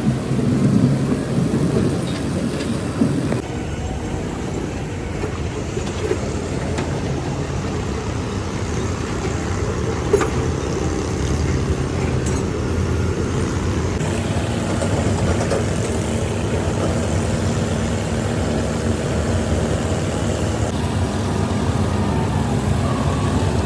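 A heavy vehicle's engine running steadily, with a few sharp knocks; the sound shifts slightly at a couple of cuts.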